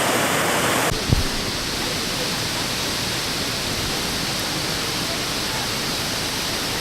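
Waterfall water rushing in a steady, even roar. About a second in the sound shifts abruptly and there is one low thump.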